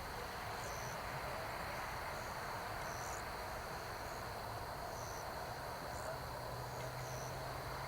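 Crickets chirping in the night air: short high chirps about once a second over a steady high-pitched tone and soft hiss. A low steady hum joins about six seconds in.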